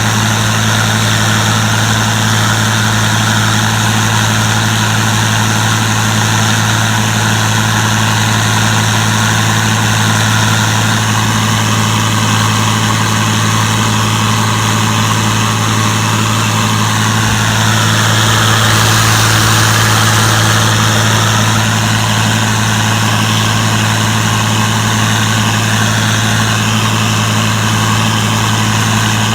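Gleaner combine running steadily while harvesting corn: a constant low engine hum with a high hiss over it, swelling slightly a little past the middle.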